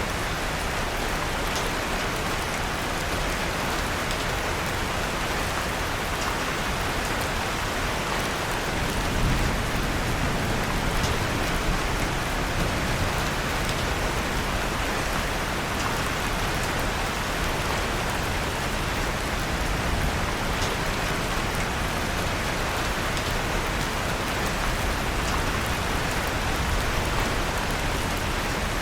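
Steady rain falling, an even hiss of drops, with scattered faint sharp crackles from a wood fire in a fireplace.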